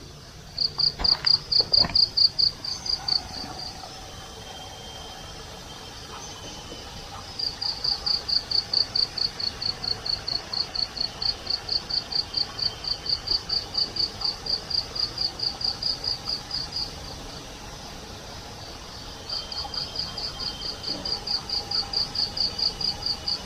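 Night insect chirping: a high, even train of pulses, about four a second, in three long bouts with short pauses between.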